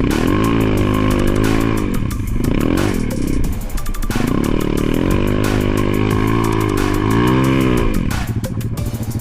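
Enduro motorcycle engine revving up and down repeatedly under riding load, pitch rising and falling in several sweeps with a brief drop near the middle.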